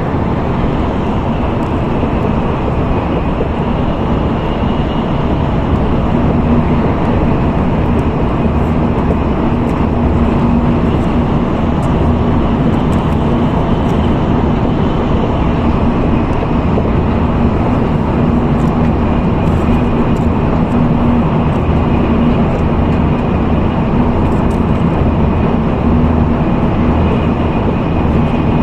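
Steady running noise heard inside an N700A Tokaido Shinkansen car at high speed: a constant rumble and rush of air with a low hum and a faint high whine.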